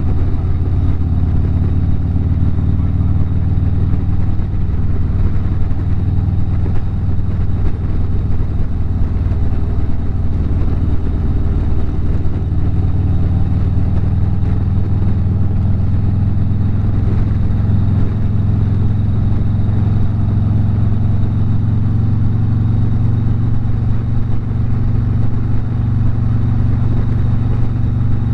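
Harley-Davidson V-twin motorcycle engine running steadily at highway cruising speed, its low exhaust note holding nearly constant, over a rush of wind and road noise.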